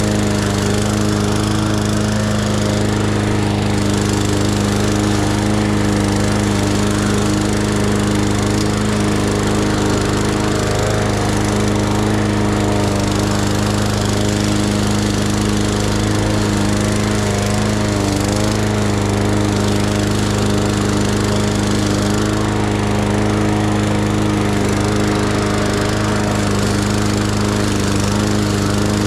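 Lawn mower engine running at a steady speed while cutting grass, with no change in pitch or level.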